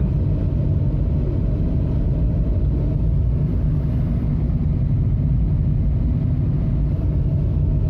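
Steady low rumble of a vehicle cruising on a highway, engine and road noise heard from inside the cabin, unchanging throughout.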